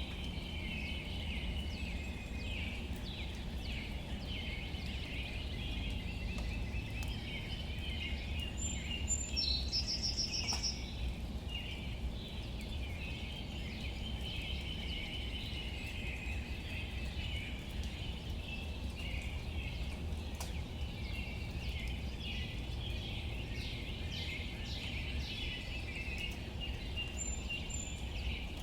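Outdoor ambience: a continuous chorus of small chirping calls from birds or insects, with one louder rapid call about ten seconds in, over a steady low rumble.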